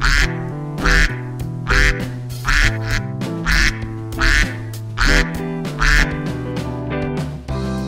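Ducks quacking over background music.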